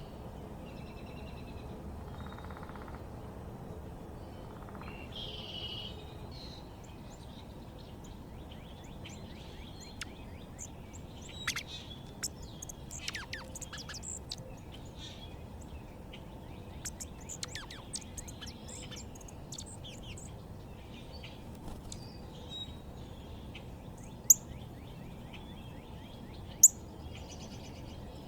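Small backyard birds chirping and calling, a scatter of quick high chirps that grows busy in the middle, with two sharp, loud high chirps near the end, over a steady low background hum.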